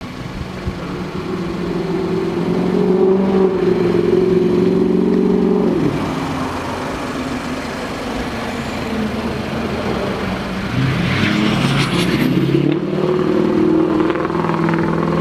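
2014 Ford F-150's 3.5 L V6 engine revved up twice: each time it climbs, holds at raised revs for a few seconds, then drops back toward idle.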